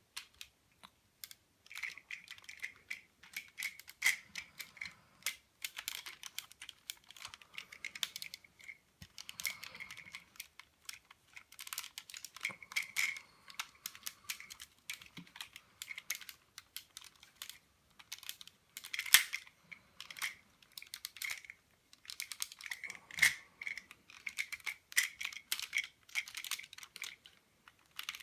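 Plastic parts of an Optimus Prime Transformers toy figure being handled, with many irregular small clicks and rattles as pieces are moved, folded and clipped together.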